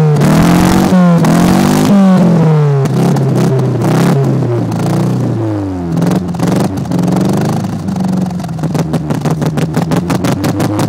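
Fiat Seicento's engine revved repeatedly through its exhaust, the pitch rising and falling with each blip before dropping back low about six seconds in. A pulsing electronic music beat takes over in the last few seconds.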